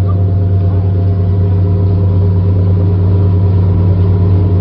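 Speedboat engine running steadily while the boat is under way, a loud, even low drone with rushing noise over it.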